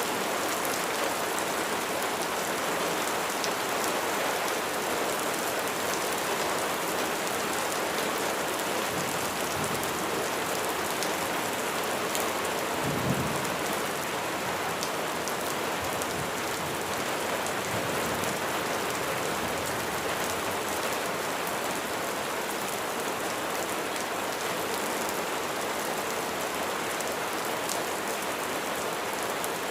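Steady rain falling hard, an even hiss of drops. A low rumble of thunder swells about halfway through and peaks briefly.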